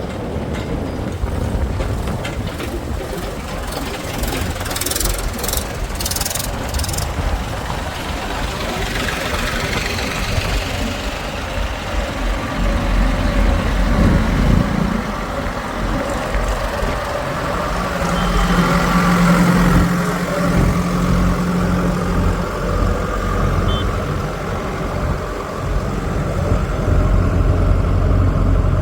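Heavy diesel engine of farm or earthmoving machinery running, swelling to a steadier, stronger hum partway through, with a handful of sharp clicks about five seconds in.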